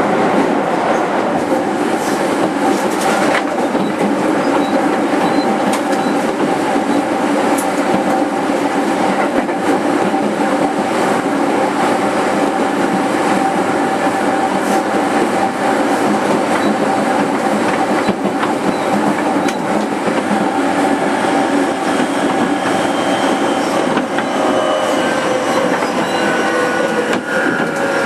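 Running noise of a JR 205 series 5000-subseries electric train heard inside its motor car: a steady rumble of wheels on rail with a constant tone from the traction motors. Near the end, several higher tones rise in pitch together, the sound of the VVVF-driven motors as the train picks up speed.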